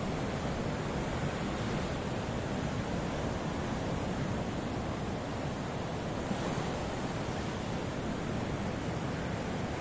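Ocean surf: a steady wash of waves with no single break standing out.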